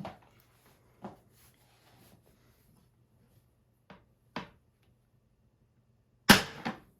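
A few light knocks and clinks as a thin glass sheet is handled, then a sharp, loud crack about six seconds in with a smaller one just after: scored scanner glass snapping along its cut line.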